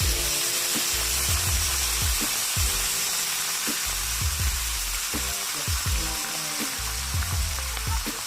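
Food frying in a hot pan, a steady sizzle, over background music with a bass beat.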